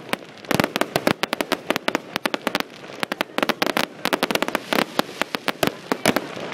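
Fireworks display with rapid, irregular bangs and crackling in dense clusters, one volley after another.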